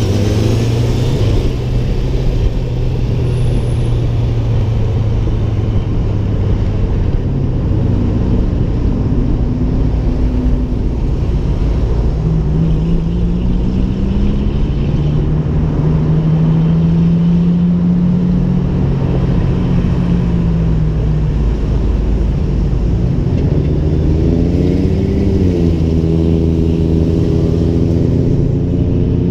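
Ford Mustang engine and exhaust running in slow traffic: a steady low rumble. The engine note rises and holds about twelve seconds in, then rises and falls again near the end.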